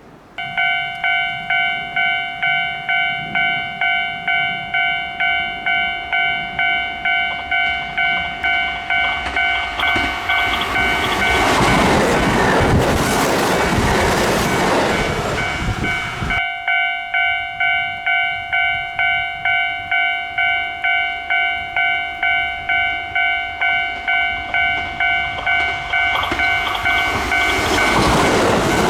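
Railway level-crossing alarm ringing steadily at about two chimes a second while a Kintetsu train passes, its wheel and rail noise rising to a peak midway. The sound cuts off abruptly, the crossing alarm starts again, and another train approaches near the end.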